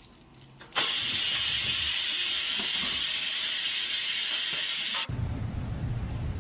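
A loud, steady hiss that starts suddenly about a second in, holds for about four seconds, then cuts off abruptly.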